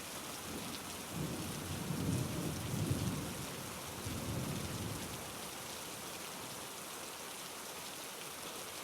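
Steady rain falling with a low roll of thunder that swells about a second in and fades out after a few seconds.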